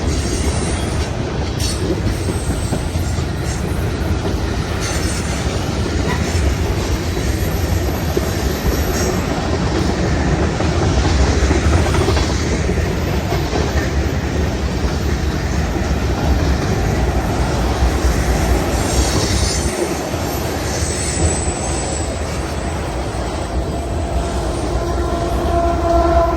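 Freight train rolling past on a curve, a continuous rumble of cars with wheels clacking over the rails and squealing against the curve. A train horn starts right at the end.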